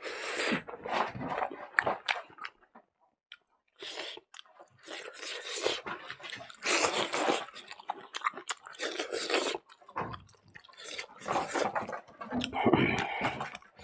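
Close-miked chewing of a mouthful of rice, dal and potato fry, in irregular bursts with a short pause about three seconds in.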